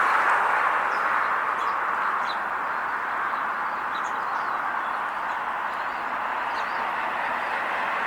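A few short, faint bird chirps over a steady hiss of road traffic, which grows louder near the end.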